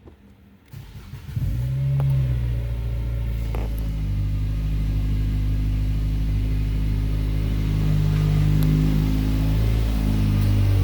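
2010 Nissan Sentra's 2.0-litre four-cylinder engine cranking briefly and catching about a second in, flaring up for a moment, then settling into a steady idle.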